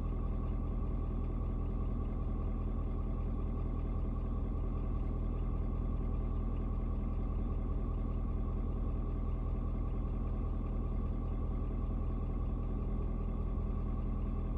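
Ford Super Duty 6.7 L turbo diesel V8 idling steadily, about eleven minutes after a cold start and still not warmed up.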